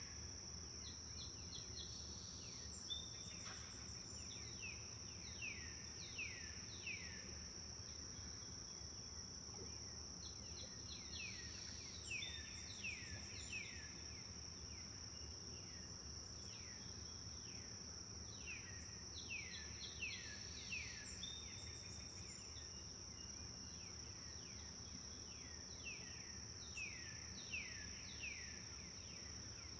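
Forest ambience: a songbird sings phrase after phrase of quick, falling whistled notes every few seconds. Under it runs a steady high-pitched insect trill and a faint low rumble.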